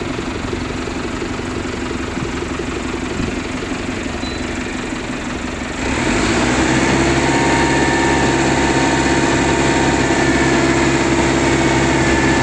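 Diesel engine of concrete-pouring machinery running steadily, then about six seconds in it revs up and holds at a higher, louder speed.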